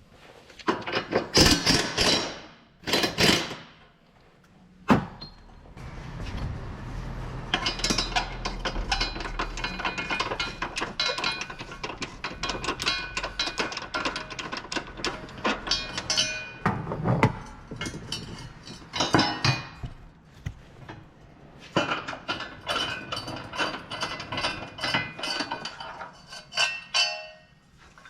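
Hand tools at work on a car's front suspension member: metal knocks and clanks, then long runs of rapid ratchet-like clicking and rattling.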